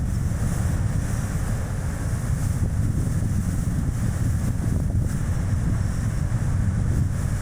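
Strong wind buffeting an action camera's microphone, a steady low rumble mixed with tyre and road noise from a small car driving.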